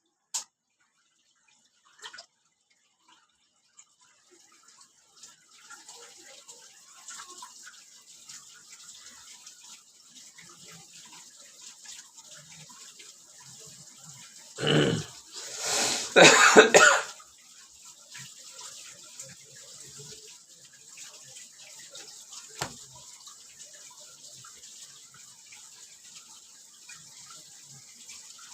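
Steady hiss of running water, starting about five seconds in. Near the middle a person coughs loudly a few times.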